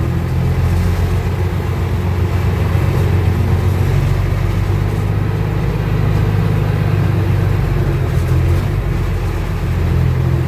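M35A2 military truck's multifuel turbodiesel engine running steadily under way, a deep, even drone.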